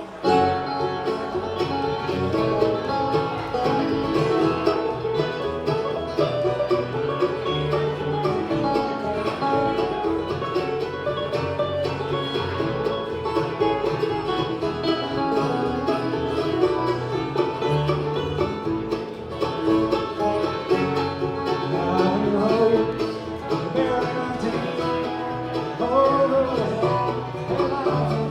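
Live bluegrass band playing a song, with banjo and guitar picking, starting right as the announcement ends.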